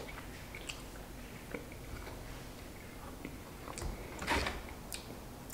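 Quiet chewing of a soft glazed donut with matcha powder, with scattered small mouth clicks. About four seconds in there is a brief louder rustle, as the cardboard donut box is handled.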